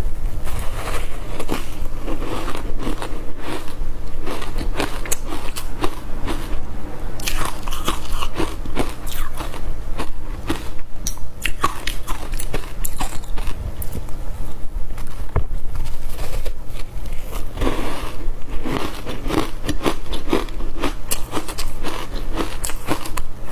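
Close-miked biting and chewing of ice coated in matcha powder: dense, irregular crunching that runs on without pause over a steady low hum.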